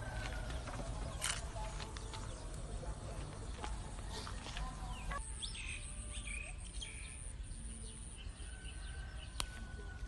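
Birds chirping and calling, with short chirps clustered about halfway through and a couple of thin held whistles, over a steady low rumble and a few small clicks.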